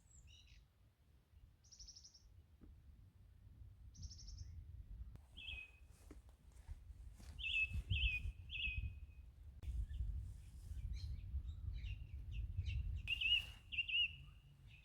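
Birds calling in short chirps and down-slurred calls, including a run of three quick calls about eight seconds in and two more near the end, over a low steady rumble.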